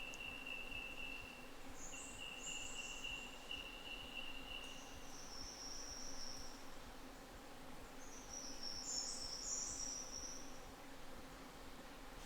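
Insects calling: a steady, high-pitched trill that breaks off briefly near the start and stops about five seconds in, overlapped by higher, shorter buzzing calls that come and go.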